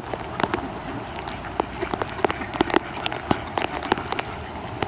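Steady hiss of rain with many sharp taps close by, irregular and several a second.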